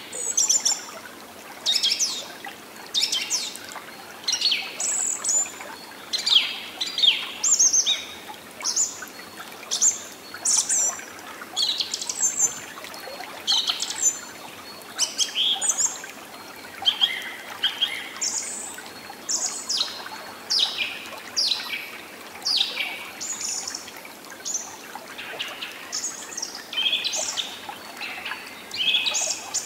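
Birds chirping and singing in short calls that follow one another continually, over a faint, even background hiss.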